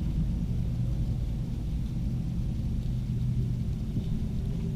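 Steady low rumble with a constant low hum, like a motor running.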